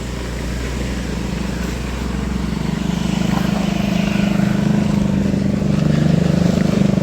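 Engine of a moving road vehicle running steadily, with a low drone that grows a little louder toward the end and then cuts off abruptly.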